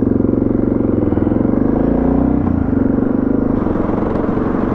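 Suzuki DR650's single-cylinder four-stroke engine pulling away under throttle, its pitch climbing, then dropping with a gear change about two and a half seconds in and running on steadily.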